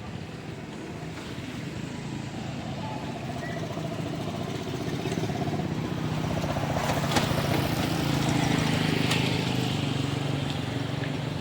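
Road traffic: motor vehicle engines running and passing, the sound slowly getting louder, with one sharp click about seven seconds in.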